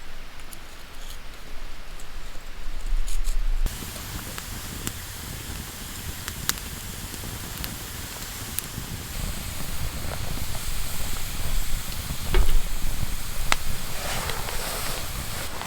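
Wood fire crackling and hissing, with sharp pops scattered through it.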